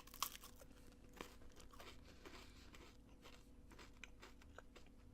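Faint crunching of a crisp cream-filled rolled wafer being bitten and chewed: scattered small crackles, a little louder at the very start and about a second in.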